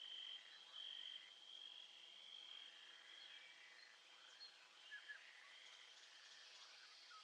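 Faint nature-sound ambience: a high, steady trilling call that breaks off and picks up again every second or so, with a few short chirps about five seconds in.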